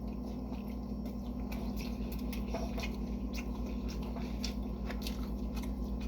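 A person chewing a mouthful of food: small wet mouth clicks and smacks, scattered irregularly, over a steady low hum.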